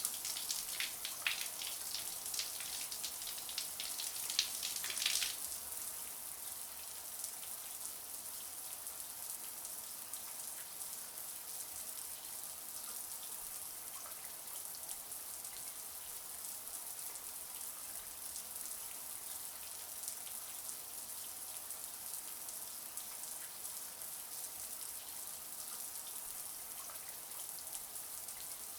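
Shower spray running and hissing steadily, with a spell of louder spattering splashes in the first five seconds or so.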